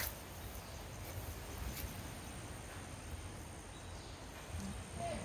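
Faint outdoor ambience: insects droning steadily at a high pitch over a low rumble.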